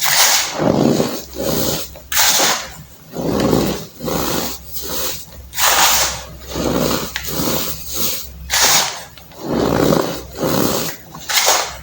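Dried baking soda being crushed in a steady run of crunches, about one every two-thirds of a second, a few of them sharper and crisper than the rest.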